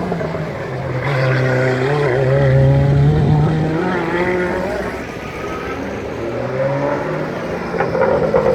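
Race car engine accelerating on the track, its pitch climbing over the first few seconds, easing off midway and picking up again near the end.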